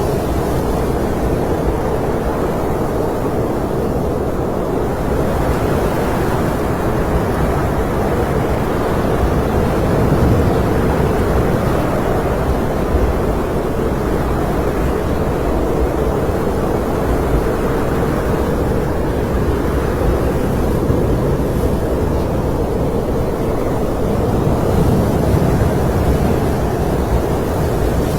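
Snowstorm wind blowing steadily, a low rushing noise that swells slightly a few times.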